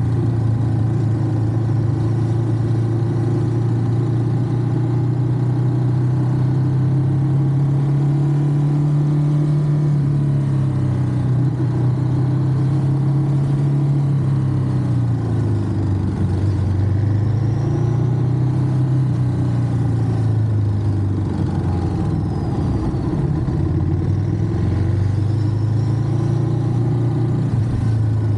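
Ducati Monster's V-twin engine running while riding. Its pitch holds steady for the first half, then drops and climbs again twice as the throttle is eased off and opened up.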